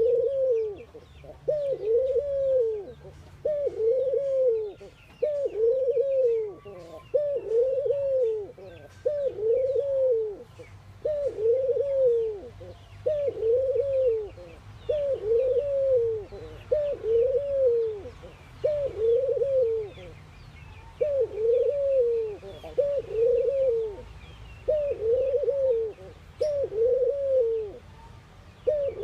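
Ringneck doves cooing: a steady run of low, arched coos, about one a second, with faint chirping of small birds behind.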